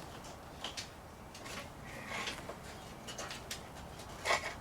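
Light knocks, clicks and scrapes of a tractor radiator and its fittings being worked forward by hand, with a louder short clatter about four seconds in.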